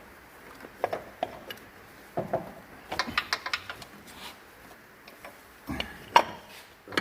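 Hand tools and metal engine parts knocking and clinking at irregular intervals, with a quick run of clicks about three seconds in and a sharp metallic knock near the end.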